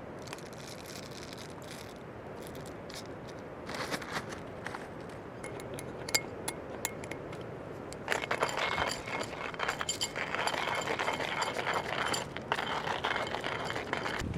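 Hand coffee mill in use: hard coffee beans clink and tick into it, then a steady gritty grinding starts about eight seconds in.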